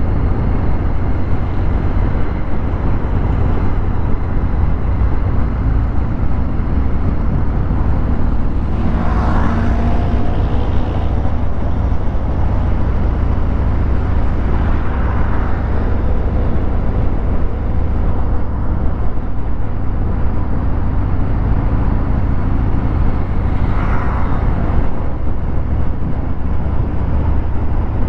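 Harley-Davidson Fat Bob 114's Milwaukee-Eight 114 V-twin running under way through a Vance & Hines Hi-Output 2-into-1 exhaust, a steady deep engine sound with two brief surges, a third of the way in and again near the end.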